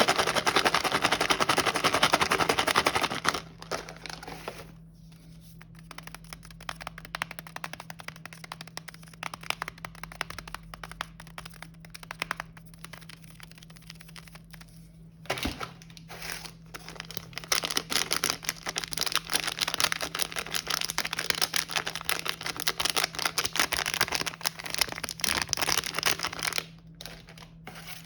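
Plastic snack wrappers being handled and crinkled: a loud, dense crackle for the first three seconds, then quieter scattered clicks and taps, then crinkling builds again in the second half.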